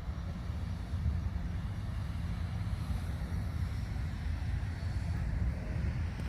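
A steady low rumble with a faint hiss above it, even throughout, with no distinct events.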